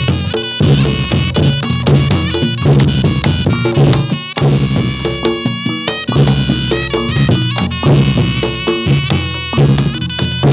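Reog Ponorogo gamelan music for a jathilan dance: steady drumming and struck pitched percussion, with a reedy slompret shawm carrying the melody.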